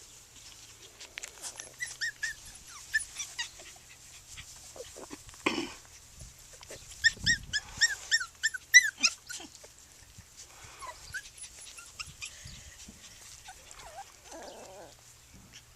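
Yorkiepoo puppies making short high-pitched squeaks, a quick run of them about seven to nine seconds in, among scattered light clicks.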